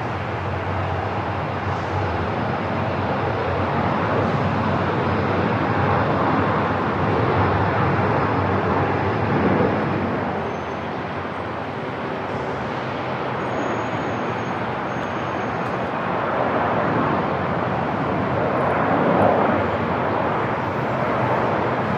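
Airport ambience: a steady rushing hum of noise that swells gently a couple of times, louder around the middle and again near the end.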